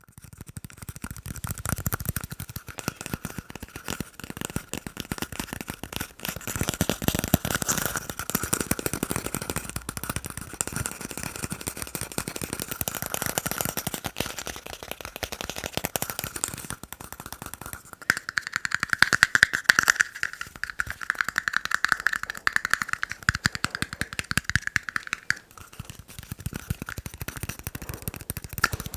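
Fast tapping on plastic cups: a dense stream of quick clicks with a light ringing pitch from the cups. From about eighteen to twenty-five seconds the ring is higher and louder.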